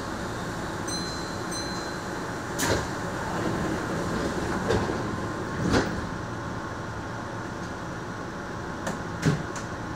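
Keihan electric train standing at an underground station platform: a steady low hum from the train, with two brief high beeps about a second in and a handful of sharp knocks and thuds scattered through, the loudest near the end.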